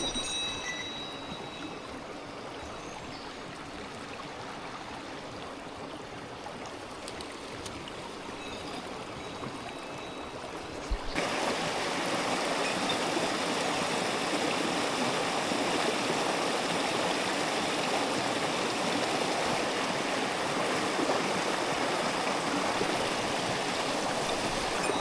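Mountain stream water flowing steadily, becoming suddenly louder about eleven seconds in and staying at that level.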